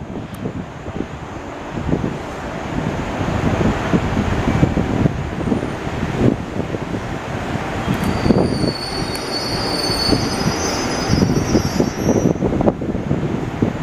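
JR Central 211 series electric train pulling out of the station, its wheels rumbling and knocking over the rails, with high wheel squeal from a little past halfway for several seconds.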